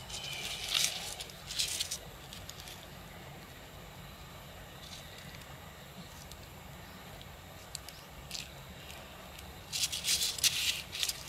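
A utility knife cutting through a dry, papery paper wasp nest: short scratchy crackling bursts in the first two seconds and again near the end, with only faint hiss between.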